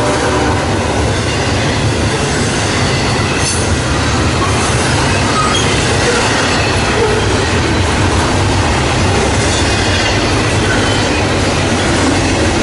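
CSX double-stack freight train rolling past, a loud, steady rumble of wheels and cars on the rails.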